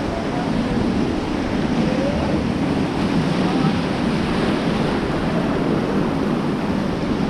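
Rushing whitewater of a river rapid around a raft, a steady, even noise with wind buffeting the microphone.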